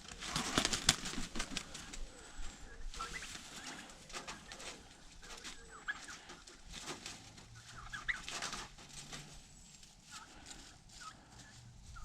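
Free-range poultry, turkeys and chickens, clucking and calling softly in short scattered notes, with brief rustling noises in between.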